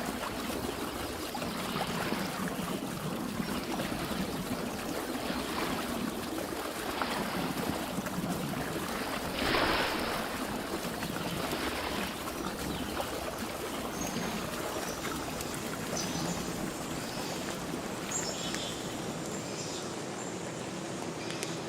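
Steady rush of running water, swelling now and then, with the loudest surge about ten seconds in. Faint high chirps come in over it in the last third.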